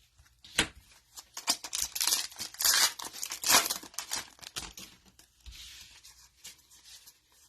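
A 2022 Donruss football retail card pack's wrapper being torn open and crinkled: a quick run of rips and crackles that thins to lighter rustling for the last couple of seconds.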